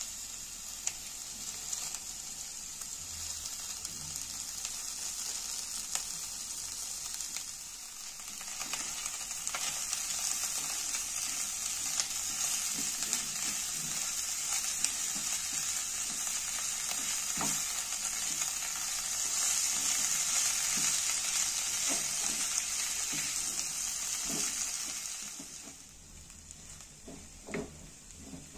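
Chicken and mashed potato cutlet mixture sizzling in a non-stick frying pan as a wooden spatula stirs and scrapes through it, with small taps of the spatula on the pan. The sizzling gets louder after about eight seconds and dies away near the end, leaving a few spatula knocks.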